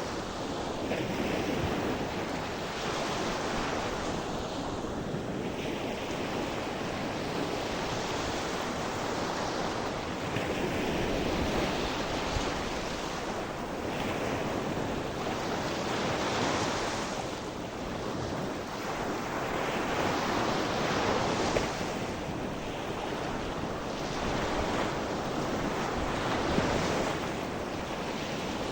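Gentle sea waves breaking and washing on the shore, a continuous surf noise that swells and eases every few seconds.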